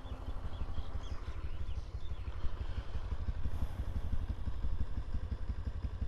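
Bajaj Pulsar 150's single-cylinder engine idling, a steady, fast low pulse of firing strokes.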